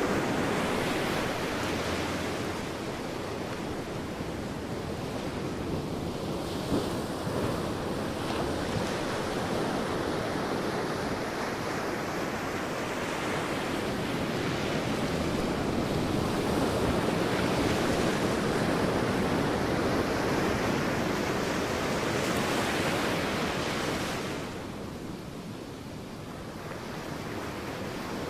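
Sea waves breaking on a beach: a continuous surf wash that swells and ebbs, dropping back for a few seconds near the end before building again.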